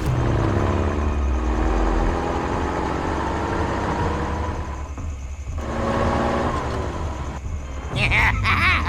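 Vehicle engine running with slowly shifting pitch. It breaks off briefly about five seconds in and resumes, and near the end gives way to sharp, high sliding sounds.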